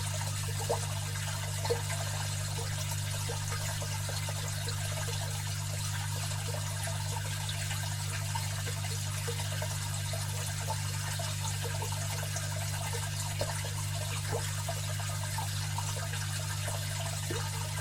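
Fish tank filter running: water trickling and splashing steadily over a low, even hum.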